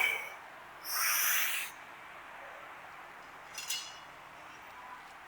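A lifter breathing hard through heavy Romanian deadlift reps: a short strained vocal grunt right at the start, then a long hissing exhale about a second in, and a fainter breath near the middle.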